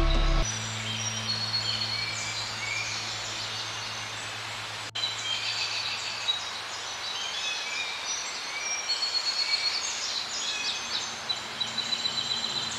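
A chorus of small birds chirping and whistling, many short high calls overlapping, over a steady hiss of background noise.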